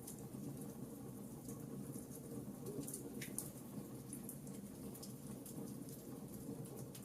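Wood fire crackling in a fireplace: a steady low rumble of burning with scattered small crackles and one sharper pop about three seconds in.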